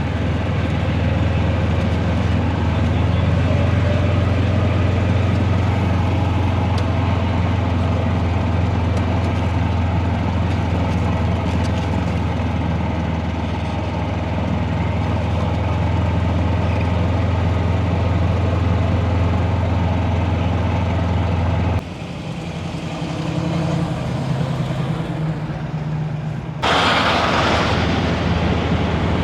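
Diesel semi-truck engine running steadily with a deep, even drone. It breaks off abruptly about 22 seconds in. A quieter rumble follows, and near the end comes a loud burst of hissing.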